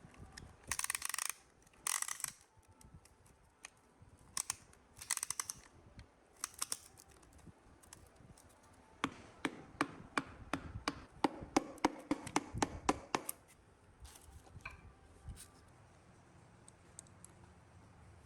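Hand-tool work on metal engine parts: a few short hissing bursts, then a run of quick sharp clicks, about three or four a second, for several seconds.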